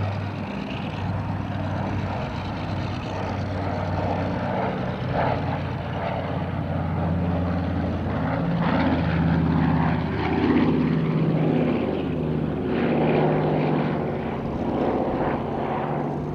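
Consolidated PBY-5 Catalina flying boat's twin radial piston engines and propellers droning as the aircraft flies by, the engine note shifting in pitch and growing loudest about ten seconds in.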